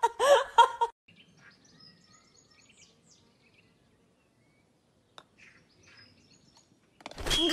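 Faint outdoor quiet with small birds chirping in short calls, and a single sharp click about five seconds in.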